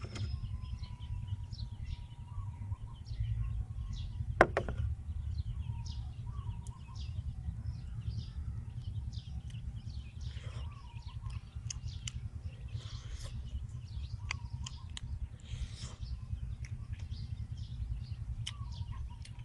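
Small birds chirping and tweeting in short scattered calls over a steady low rumble, with one sharp click about four and a half seconds in.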